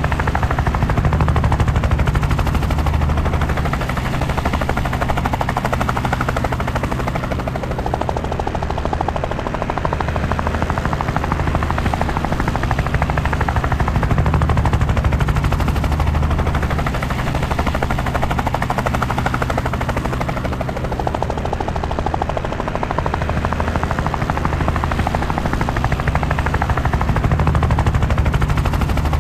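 Helicopter rotor and engine running steadily in flight: a rapid, even blade chop over a low drone that swells and eases every several seconds.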